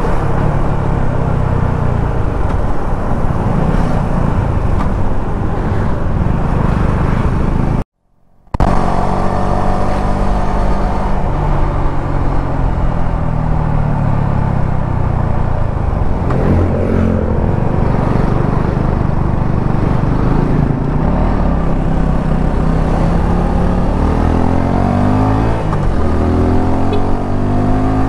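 Suzuki V-Strom 250 SX's single-cylinder engine running on the move, its pitch rising and falling repeatedly as it speeds up and eases off. The sound cuts out for a moment about eight seconds in.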